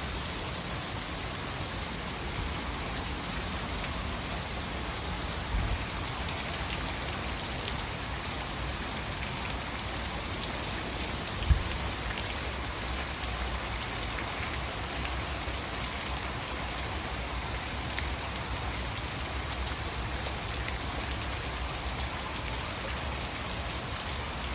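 Steady tropical-storm rain falling and hitting surfaces, with one brief low thump about halfway through.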